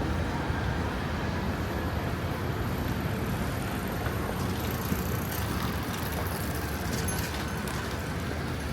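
Steady outdoor street ambience with road traffic noise, strongest in the low rumble, with a few faint clicks in the middle.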